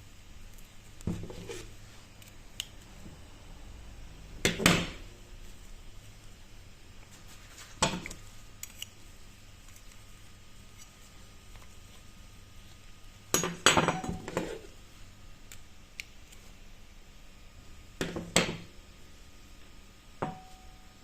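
Metal tools and bicycle parts knocking and clinking on a workbench, about six separate knocks each with a short ring, the loudest about four and a half seconds in and again near fourteen seconds.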